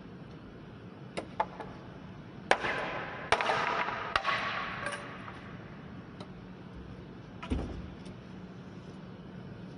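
Workshop clatter of objects being knocked and set down: a few light clicks, then two sharp knocks that ring on briefly, a few more knocks, and a dull thud near the end.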